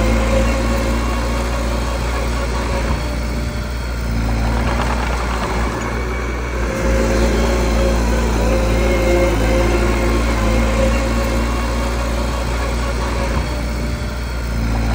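Small bulldozer's diesel engine running steadily, its level easing a little a few seconds in and again near the end.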